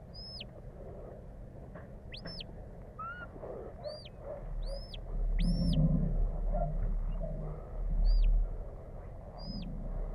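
Sheepdog handler's whistle giving commands to the working dog: a string of about eight short, high whistle notes, each swooping up and falling away, with a low rumble beneath.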